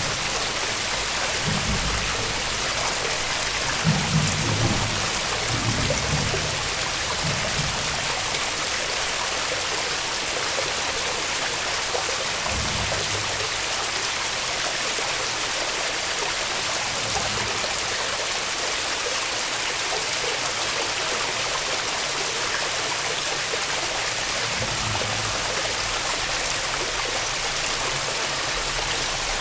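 Waterfall rushing with a steady, even roar of falling water, and a few brief low rumbles at the start, around four to six seconds in, about twelve seconds in and about twenty-five seconds in.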